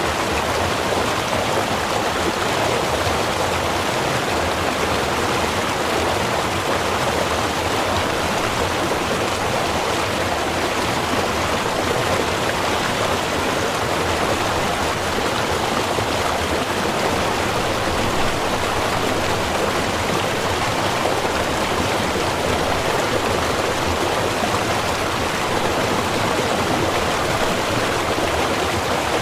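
A small river or stream running steadily, an even rushing of water with no distinct splashes or changes.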